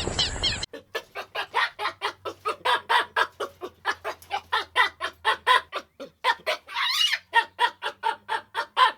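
A rapid series of short clucking animal calls, about four a second. A brief run of higher chirping cuts off just under a second in, before the clucking starts.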